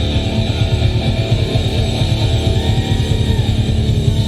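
Live punk rock band playing loud, with distorted electric guitars and fast pounding drums as a song's ending rings on.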